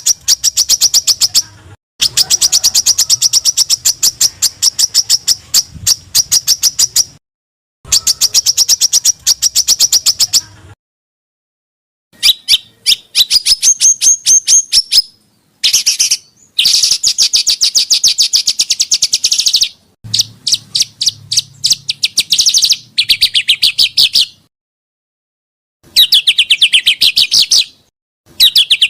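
Recorded small-songbird songs played as masteran (bird-tutoring) audio: rapid, dense trills of sharp high notes, about ten a second, in bursts of one to five seconds. Each burst cuts off abruptly into silence, and the trill pattern changes from burst to burst.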